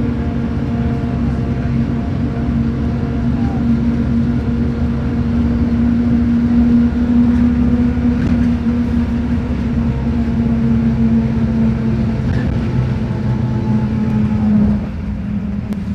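Diesel engine of a Mercedes-Benz OF-1721 BlueTec 5 bus running with a steady drone. Near the end the sound drops a little and its pitch falls slightly.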